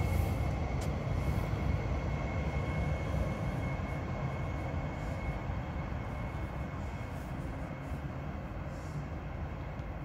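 Low rumble of a Régio2N electric multiple unit at the station, fading gradually; a thin high whine dies away in the first second.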